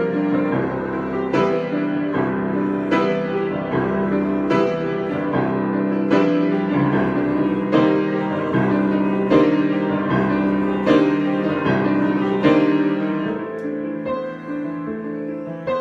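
Solo piano improvisation: full chords struck about every second and a half over ringing sustained notes, getting softer near the end.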